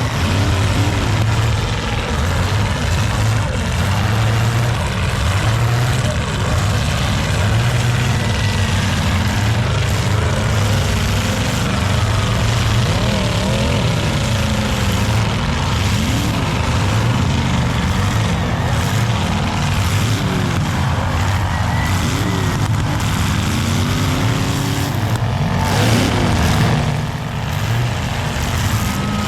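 Several full-size demolition derby cars' engines running at once, revving up and down over a constant rumble, with a couple of sharp crashes of car hitting car near the end.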